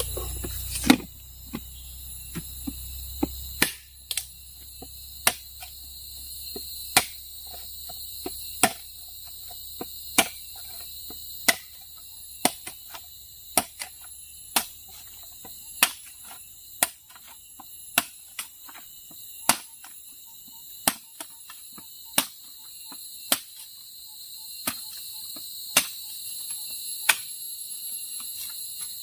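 Sharp knocks of a tool striking bamboo, about one every second or so, are the loudest sound. Under them runs a steady high chorus of insects trilling.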